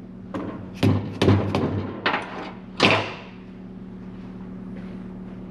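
Soft-faced hammer tapping on the cylinder of a Can-Am Maverick 1000 engine to break it loose from the case: a run of sharp knocks, the last and loudest about three seconds in. A steady low hum follows.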